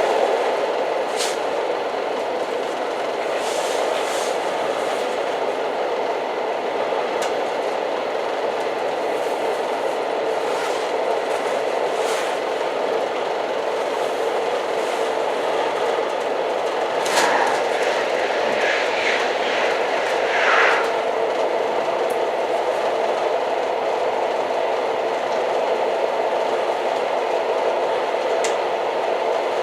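Old train running on the rails, a steady rumble with scattered clicks from the track. A few brief, higher squeaks come a little past halfway.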